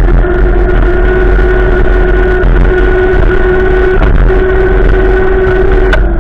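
Strong wind gusts rumbling on the microphone, with a steady whistling tone over the top and a sharp click near the end.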